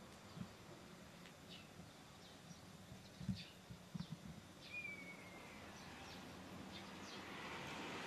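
Faint outdoor ambience with scattered short bird chirps and one longer falling whistled note about five seconds in, plus a few soft low thumps.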